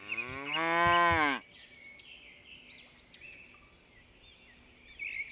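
A cow mooing once, a long call of about a second and a half that rises and then falls in pitch, followed by faint high chirping.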